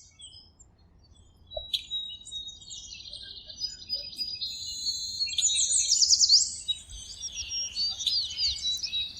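Songbirds chirping and trilling, several high-pitched calls overlapping, with quick sweeping notes loudest around the middle.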